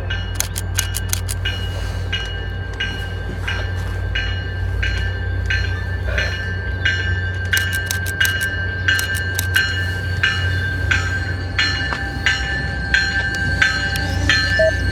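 A train running past with a steady low rumble and a few clusters of sharp clicks, while a bell rings over and over at an even pace, about three strikes every two seconds.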